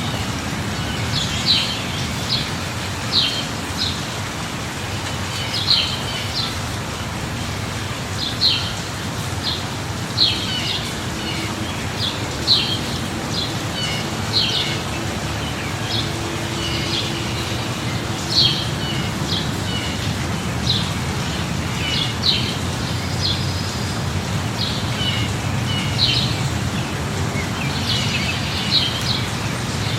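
Steady light rain hiss with birds chirping over it, short high chirps coming every second or two.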